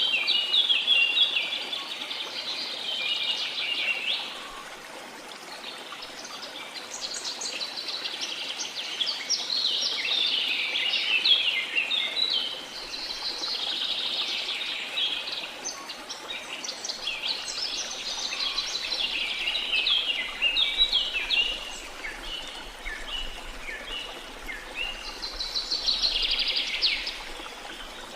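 Songbirds singing in a tropical rainforest, phrases of quick chirps and trills coming every few seconds, over a faint steady rush of water.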